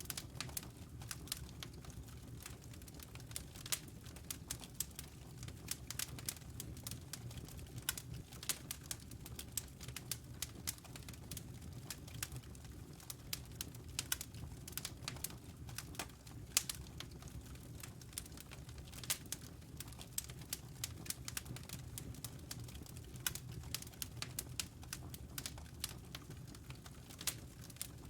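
Wood fire burning in a fireplace: logs crackling with irregular sharp pops and snaps, several a second, over a low steady rumble of the flames.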